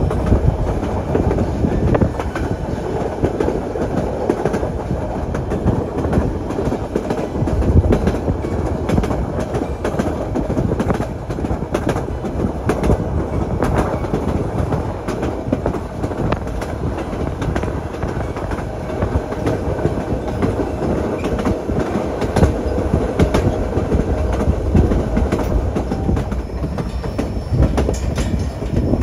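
Narrow-gauge passenger cars rolling along the track: a steady rumble of steel wheels on rail, with scattered sharp clicks of the wheels passing over rail joints.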